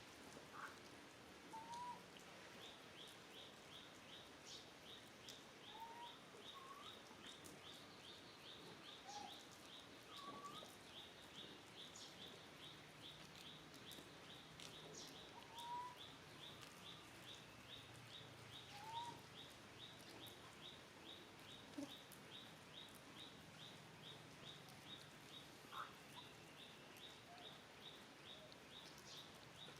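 Faint outdoor animal sounds: a high chirp repeating steadily about twice a second, with short rising calls every few seconds.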